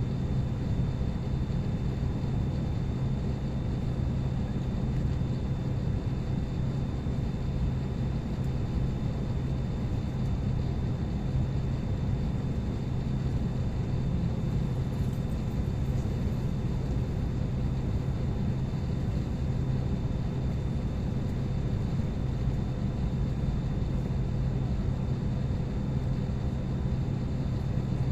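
Steady drone inside a parked airliner's cabin: the air-conditioning airflow hiss with a constant low hum and a faint high whine, unchanging throughout.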